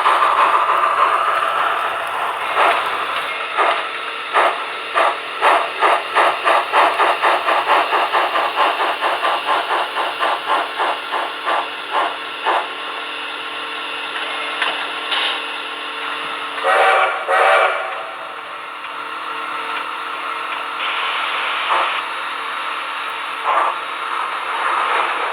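Sound-system audio from HO-scale Tenshodo Quantum C62 steam locomotive models: rhythmic exhaust chuffs, about two to three a second, for the first half, fading away, over a steady steam hiss. Around two-thirds through a steam whistle sounds twice in quick succession.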